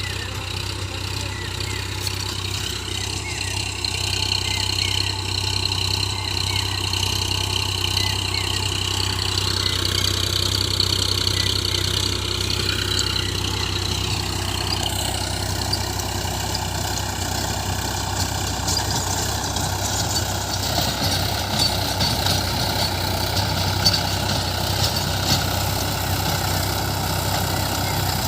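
Tractor engine running steadily, its pitch shifting a little partway through.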